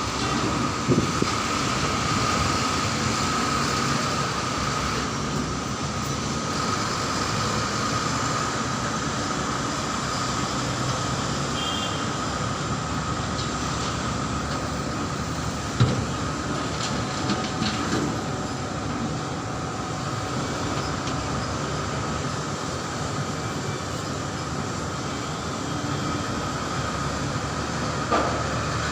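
Dump truck running steadily, a continuous engine drone with rattling, a thin steady high whine, and a few sharp knocks or bumps.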